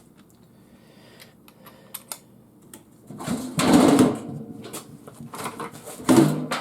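Scattered light clicks and knocks of tools and metal parts being handled while a garage door opener is taken apart, with a louder rustling burst about three and a half seconds in and a shorter one near the end.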